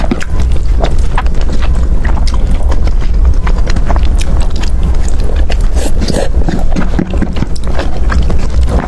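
Close-miked eating: chewing food, with many quick, irregular mouth clicks over a low rumble.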